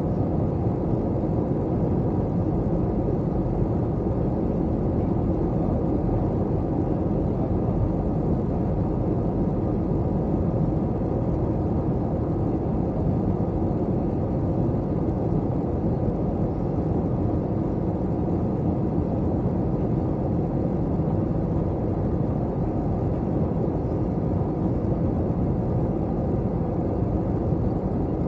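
Steady low drone inside the cabin of an Airbus A321 airliner, from its engines and the air rushing past, unchanging throughout.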